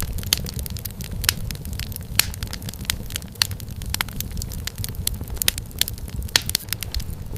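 Wood fire crackling in a fireplace: irregular sharp pops and snaps several times a second over a steady low rumble of the flames.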